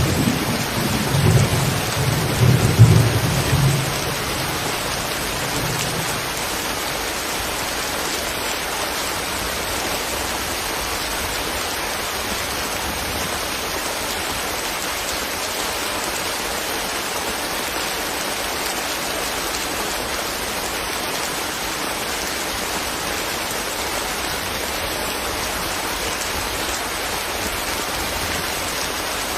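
Steady rain falling, an even hiss. A roll of thunder rumbles over the first few seconds and dies away.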